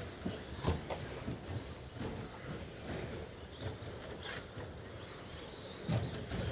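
Electric RC short-course trucks running on a race track: scattered knocks and clatter with a few faint, brief high whines.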